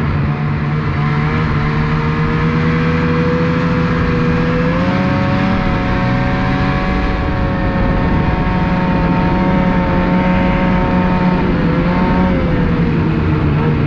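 2019 Ski-Doo Renegade 600R's two-stroke twin engine running at a steady trail speed. Its pitch steps up about five seconds in, holds, and dips briefly and recovers near the end.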